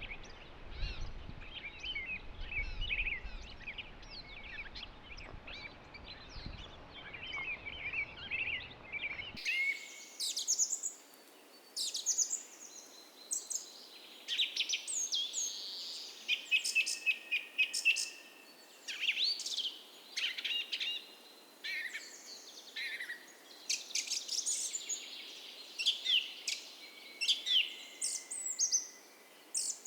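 Morning chorus of several wild birds chirping and singing in short, overlapping calls and phrases. About nine seconds in, the sound changes abruptly to a brighter, closer-sounding take with louder, higher calls.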